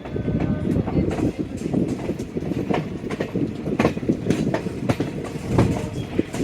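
Diesel-hauled Indian passenger train running, a steady rumble of the coaches with irregular sharp clacks of the wheels over rail joints and points.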